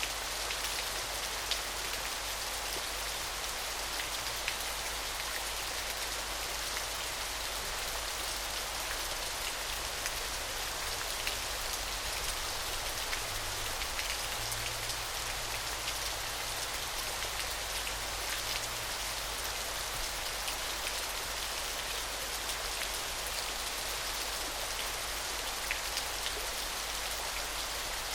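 Small waterfall splashing steadily, a constant shimmering hiss of falling water dotted with small drip-like ticks.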